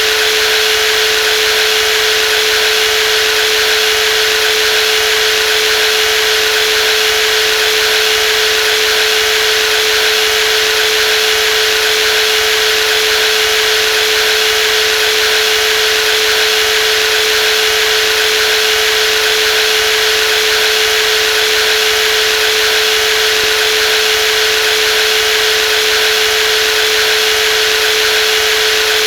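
Brushless jigsaw running steadily: a constant whine on one tone with a hissing whirr above it, no change in speed or level.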